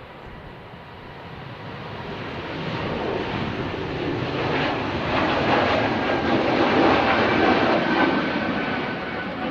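Jet airliner's engines swelling to a loud rush with a steady whine, peaking about two-thirds of the way through and easing slightly at the end.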